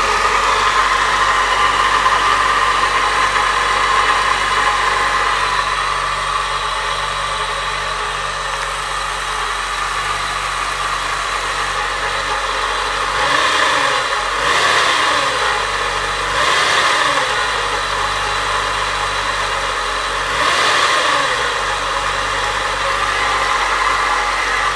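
Chevrolet 4.1 straight-six engine idling, blipped up and back down about four times in the second half. The owner says it is making a strange noise.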